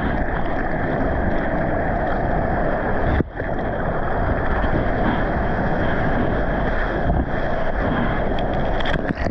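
Waves breaking and wind buffeting the microphone: a loud, steady rushing noise, with a brief dip about three seconds in.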